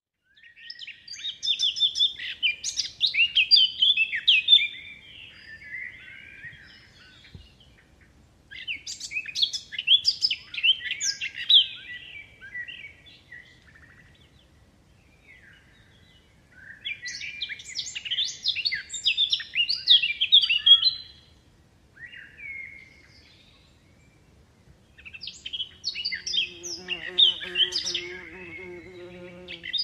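Birdsong: bouts of quick, high chirping notes, each a few seconds long, repeated four times with short pauses between.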